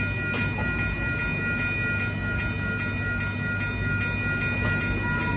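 Amtrak Coast Starlight passenger train rolling past, a steady rumble of the cars with a few constant high-pitched tones over it.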